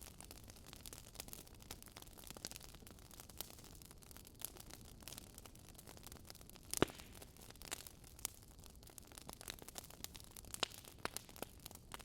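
Wood fire in a fireplace crackling: irregular sharp pops and snaps over a soft low hiss, with one louder pop about seven seconds in.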